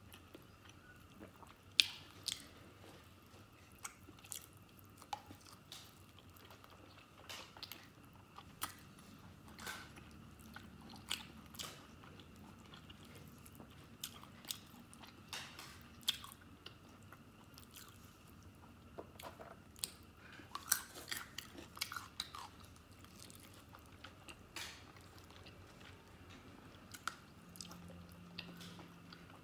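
Close-miked chewing and wet mouth smacks of a person eating stewed fatty pork and noodles, heard as irregular sharp clicks.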